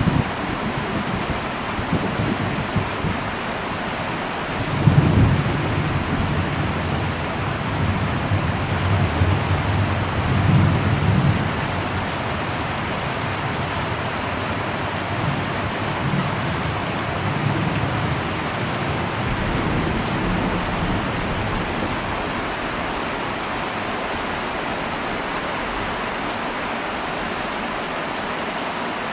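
Heavy rain drumming steadily on an old metal roof, with a long roll of thunder rumbling from about five seconds in and fainter rumbles fading out over the following several seconds.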